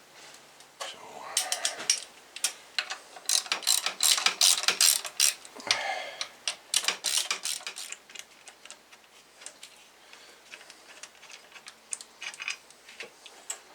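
Hand ratchet wrench clicking in quick runs as a bolt is turned out, the clicks thinning out after the middle.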